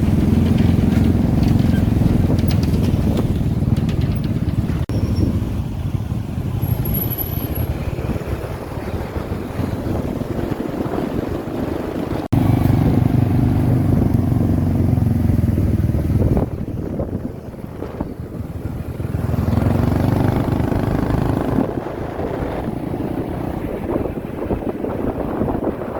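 Motorbike engine running while riding. It gets louder and quieter in stretches as the throttle changes, and breaks off abruptly about twelve seconds in before running on.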